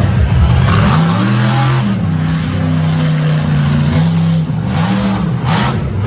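Monster truck engine revving hard. Its pitch climbs about a second in, holds high for a couple of seconds, then dips and climbs again, with surges of noise near the end.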